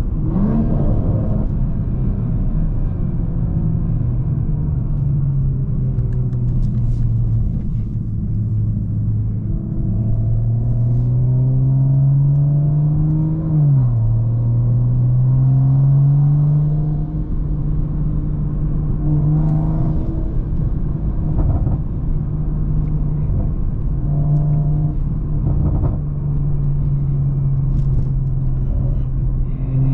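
BMW M340i's turbocharged B58 inline-six, fitted with a big Pure 800 turbo, under way on the road. The engine note climbs steadily for a few seconds, drops sharply about halfway through at a gear change and climbs again, with steadier cruising stretches in between.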